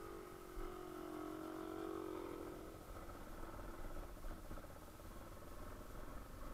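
Yamaha Serow 250 trail bike's single-cylinder engine running at low revs, a steady hum; a stronger pitched tone in the first two seconds or so eases slightly lower and fades.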